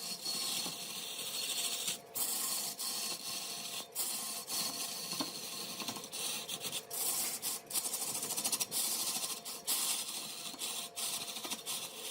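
Wood being cut or sanded as it spins on a lathe: an even, hissy rasping broken by a few brief gaps.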